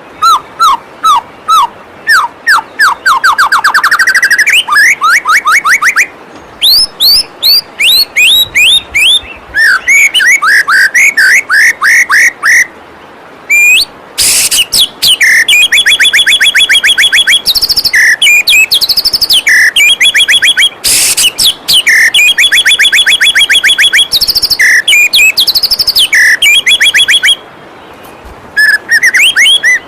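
White-rumped shama (murai batu) singing loudly in varied phrases of fast repeated whistled notes and rattling trills, with brief pauses between phrases. Steady rushing waterfall water runs faintly underneath.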